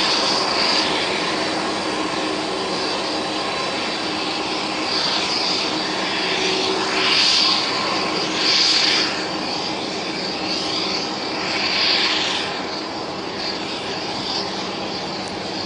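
Boeing 747-400 jet engines running at taxi power: a steady rumble with a high whine, swelling in a few louder bursts of high hiss about a second long.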